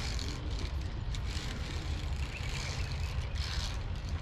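Steady low rumble and hiss of wind buffeting the microphone of a moving action camera, with a few light clicks.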